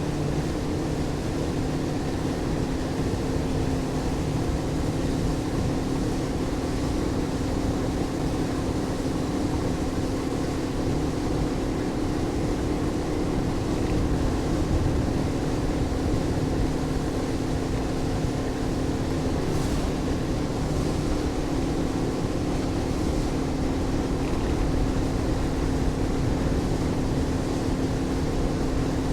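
Motorboat running at steady cruising speed: the engine holds one steady drone over an even rush of water and wind noise.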